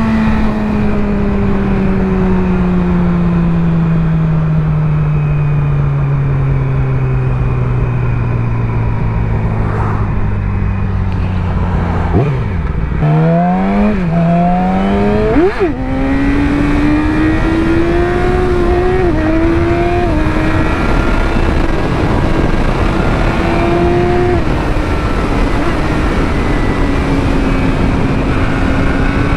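Yamaha R6 inline-four engine on the move with wind noise. The revs fall slowly for about twelve seconds, then climb sharply in several short steps through gear changes, and settle into a steady cruise.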